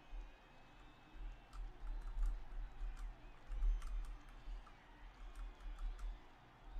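Scattered light clicks at an uneven pace over a low rumble that swells and fades.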